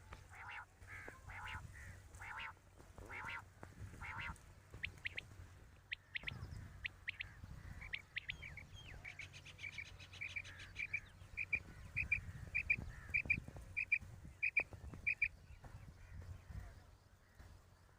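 Birds calling: a run of short, harsh calls at first, then a steady series of clear, short pips, about three a second, that stops about three seconds before the end.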